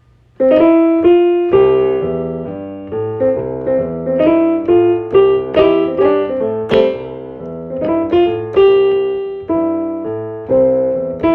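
Solo piano music: a melody of single and chorded notes struck one after another, each ringing and fading, starting about half a second in.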